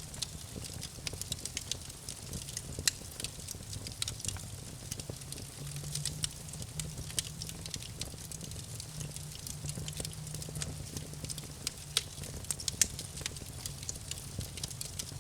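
Campfire crackling: frequent, irregular sharp pops and snaps of burning wood, a few louder than the rest, over a low steady rumble.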